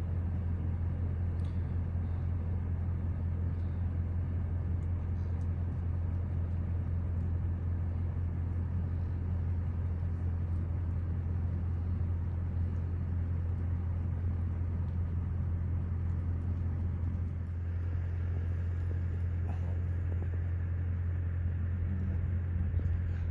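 A vehicle engine running steadily, a constant low hum with no change in pitch or level.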